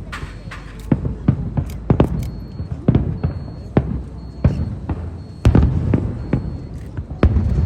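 Aerial fireworks shells bursting in quick succession, two or three sharp bangs a second over a steady low rumble, with a heavier run of booms about five and a half seconds in.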